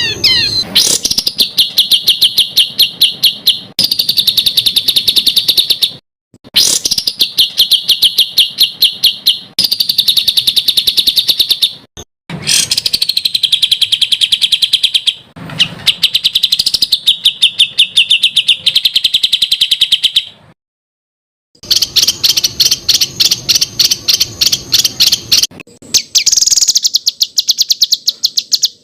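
Songbird 'tembakan' training song: rapid-fire trains of sharp, evenly repeated high notes in phrases a few seconds long. The phrases are split by short breaks, one of them a second-long silence about two-thirds of the way in.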